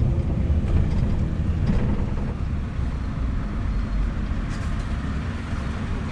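Scania V8 truck running, a steady low engine rumble.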